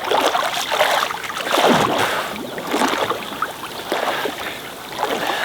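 Lake water splashing and sloshing irregularly around a swimmer moving through it.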